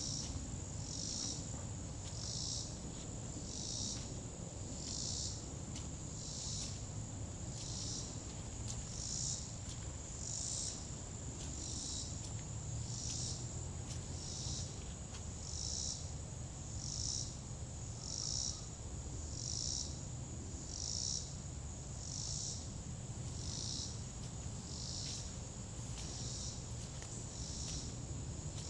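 Insects calling: a steady high-pitched trill runs throughout, with a second, pulsing call repeating evenly about every second and a half, over a low background rumble.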